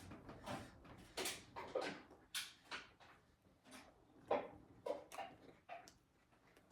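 A person chewing a mouthful of sub sandwich with the mouth open: irregular smacking mouth noises, roughly two a second, the sharpest about four seconds in.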